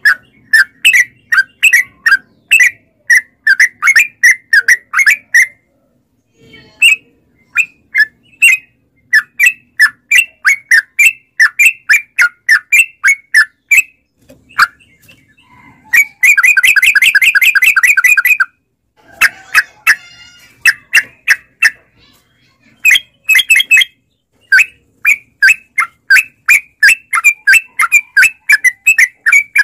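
Yellow-vented bulbul (trucukan) singing long runs of short, sharp chirps, several a second, broken by brief pauses, with a fast, dense trill about two-thirds of the way through.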